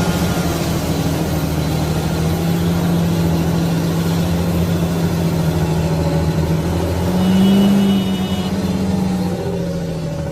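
Big farm tractor diesel engines running hard at high revs: a steady drone whose pitch rises briefly about seven seconds in, then settles a little lower near the end.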